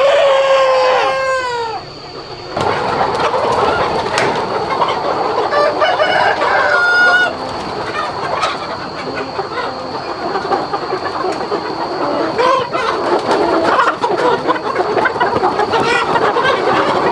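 A large flock of chickens clucking continuously, with a rooster crowing at the start, its call falling in pitch, and another drawn-out call about six to seven seconds in. A faint steady high whine runs underneath.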